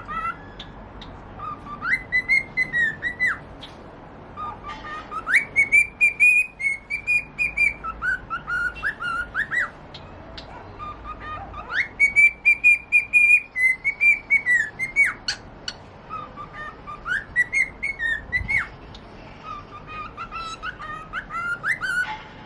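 Cockatiel whistling a song: about four phrases of quick, rising and falling whistled notes with short pauses between them.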